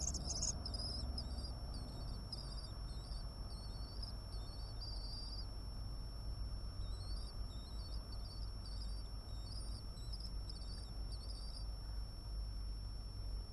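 A string of short, high chirping bird calls, some gliding in pitch, repeating until near the end, over a steady thin high whine and a low hum.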